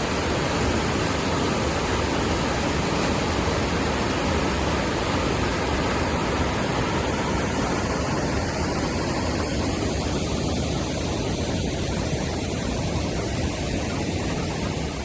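Steady, dense rushing noise with no clear pitch or rhythm.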